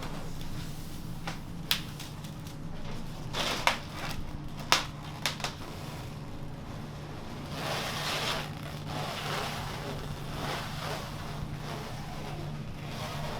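Food-preparation sounds in a fried-chicken shop kitchen: a few sharp knocks and clatters in the first half, then stretches of rustling and scraping, over a steady low hum.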